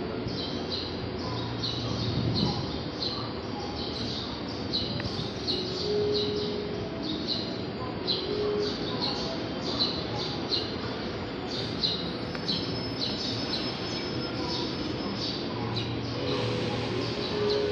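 Small birds chirping, a steady run of short high chirps about two or three a second, over a low steady hum of the surroundings.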